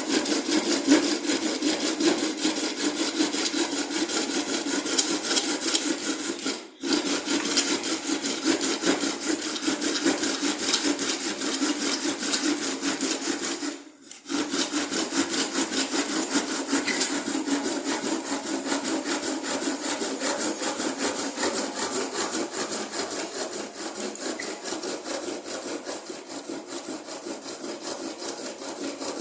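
Rapid, continuous back-and-forth scraping strokes of hand work on wood or metal. The strokes stop briefly twice, about a quarter of the way in and again about halfway.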